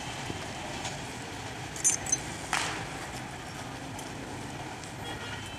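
Low rumble of a passenger train running away down the track, fading. Two brief high chirps and a sharp click come about two seconds in.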